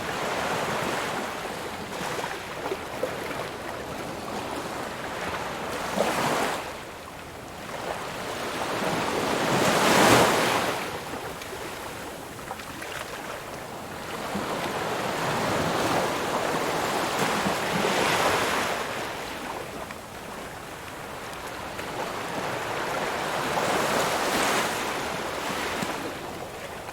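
Ocean waves breaking on a shore, the surf swelling and receding in a steady wash, with the strongest wave cresting about ten seconds in.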